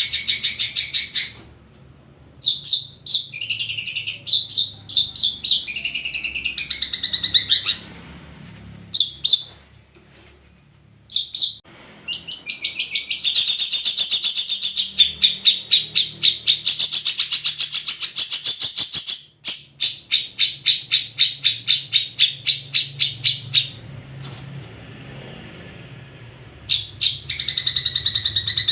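A long-tailed shrike (cendet) singing a loud, varied song in bursts of high chattering phrases, broken by short pauses, with a long run of quickly repeated notes about halfway through.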